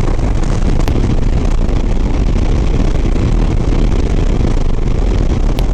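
Steady wind rush and engine drone of a Harley-Davidson Sport Glide V-twin motorcycle riding at highway speed, heard from the rider's microphone.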